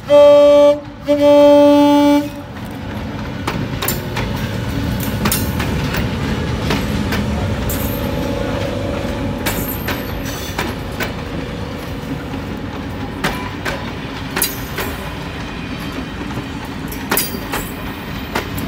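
Lead diesel locomotive's horn sounding two blasts, a short one then a longer one, as the train reaches the spot. Then the heritage passenger train's carriages rolling past close by: a steady rumble with wheels clicking over rail joints.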